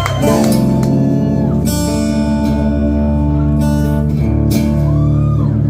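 Live rock-band music: guitar ringing out held chords over sustained low notes, with several bright strummed chords.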